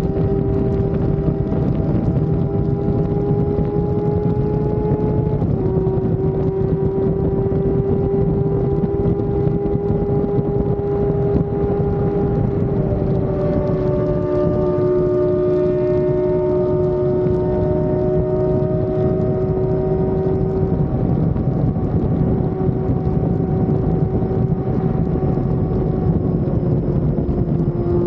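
Sport motorcycle's inline-four engine running at high, steady revs while riding, its pitch dropping slightly twice. A loud, steady rush of wind runs underneath.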